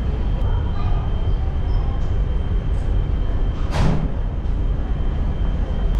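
Steady low rumble aboard the passenger ship Sarubia Maru, with a brief rushing burst about four seconds in.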